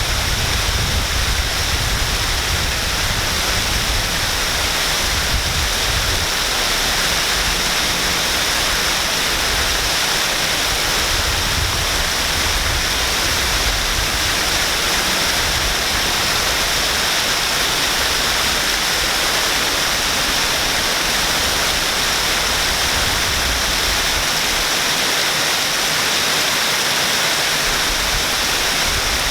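Waterfall pouring steadily: a dense, even rush of falling water with a strong hiss, over an uneven low rumble that swells and fades.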